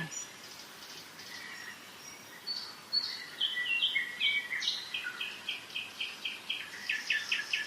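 Spring birdsong in a forest: several songbirds singing, one with a falling series of notes partway through, then a run of short repeated notes about three a second, over the faint steady rush of a mountain river.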